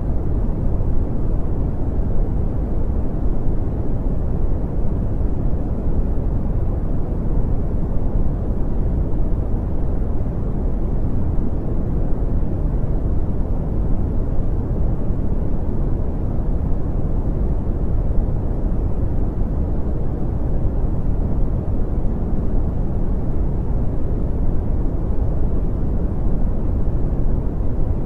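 Brown noise: a steady, deep rumbling hiss, strongest in the bass and falling off toward the highs, unchanging throughout.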